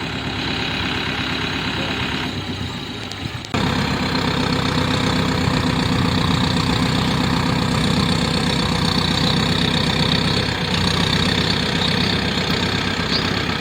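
Tractor diesel engine running steadily. About three and a half seconds in it turns suddenly louder, with a stronger low hum, and then holds steady.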